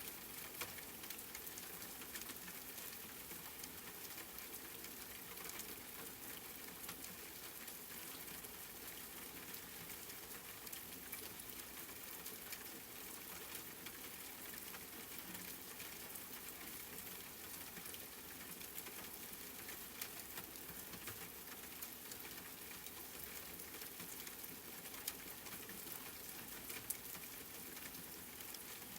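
Steady rain pattering on a surface, with scattered individual drops ticking.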